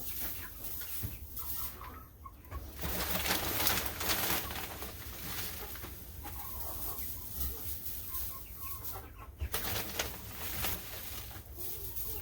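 Chickens clucking, with a couple of longer stretches of dry rustling about three and ten seconds in, as wood shavings are spread for bedding.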